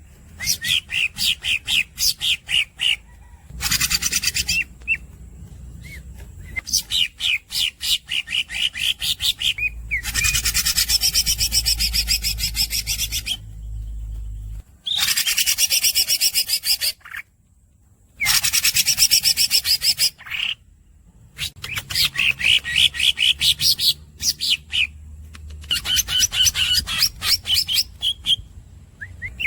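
Green leafbird (cucak ijo) singing. Phrases of fast repeated squeaky notes alternate with several long, harsh rolls of two to three seconds each, with short pauses between phrases.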